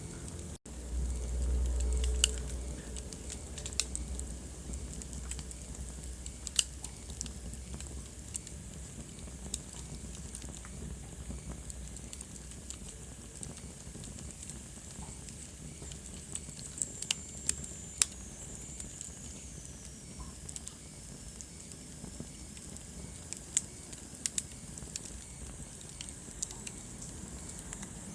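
Wood fire crackling in a fireplace: irregular sharp pops and snaps over a steady soft hiss, with a low rumble that swells briefly near the start.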